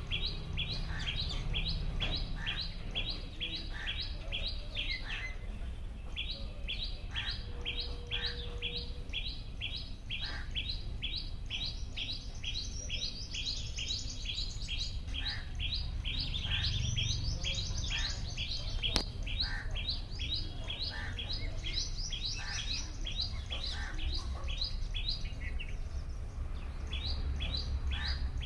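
Bird chirping in a rapid, even series of short high notes, about three or four a second, pausing briefly now and then, over a steady low rumble.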